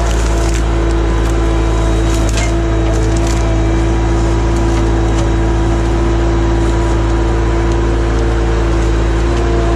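Skid steer loader's engine running steadily with a constant whine, with a few sharp cracks or snaps in the first few seconds.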